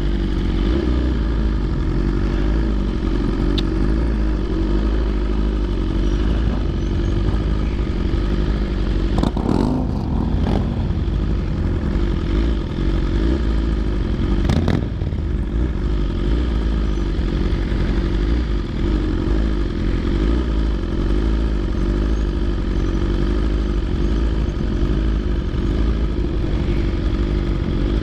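BMW S1000RR inline-four motorcycle, fitted with Arrow titanium headers and an SC-Project CRT exhaust, running steadily under way. There are brief noisy surges about ten and fifteen seconds in.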